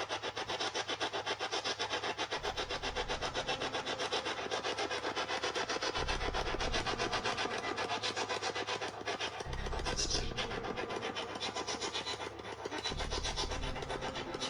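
Spirit box sweeping rapidly through radio stations: harsh static chopped many times a second, with deeper patches breaking in every few seconds.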